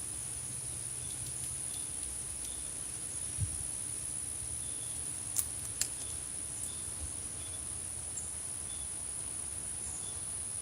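Outdoor insect chorus: a steady high-pitched trill with short, faint chirps repeating about once a second, and two sharp clicks about halfway through.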